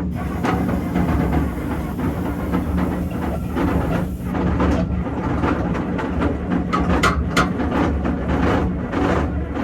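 Electric starter cranking a John Deere diesel engine in a long, continuous crank after air has been bled from its fuel system. From about halfway, a regular pulsing beat comes through the cranking noise as the engine tries to fire.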